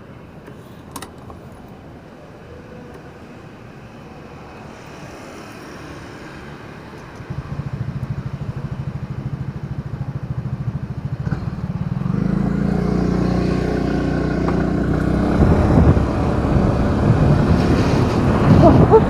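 Motorcycle engine coming in suddenly about seven seconds in after a quiet stretch, then running with a low, rapid pulsing and getting louder in steps as it speeds up. A single click sounds about a second in.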